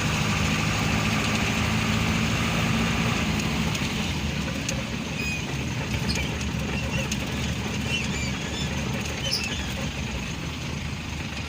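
Truck engine running under way, with a steady hum for the first three or four seconds that then turns into a rougher, noisier rumble.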